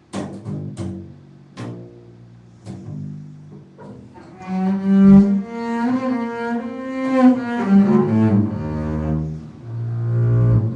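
Solo low bowed string instrument playing contemporary music: a few sharp plucked or struck notes, then from about four seconds in, sustained bowed notes that slide in pitch, ending on a lower held note.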